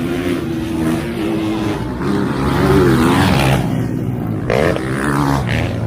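Motocross dirt bike engines running and revving, the engine note rising and falling in pitch as throttles open and close.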